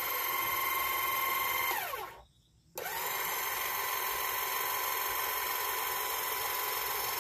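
Electric car jack's motor running with a steady high whine. It winds down and stops about two seconds in, then starts again under a second later and runs on steadily.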